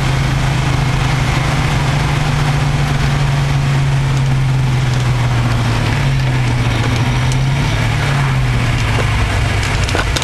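1969 Camaro's 427 cubic-inch small-block Chevy V8 running at low, steady revs, heard from inside the cabin. Its low note wavers in pitch around six to eight seconds in, then steadies again.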